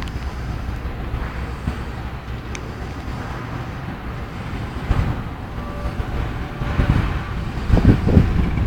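Steady traffic noise with wind buffeting the microphone, growing louder in gusts near the end.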